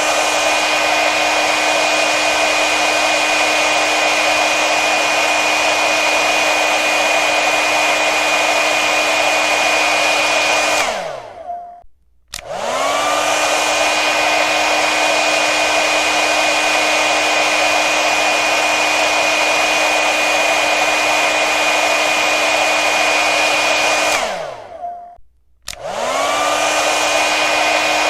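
Hair dryer blowing steadily, its motor whine over a rushing airflow. Twice, about 12 seconds apart, it shuts off with a falling whine and a moment of silence, then comes back on with a click and a rising whine as the motor spins up.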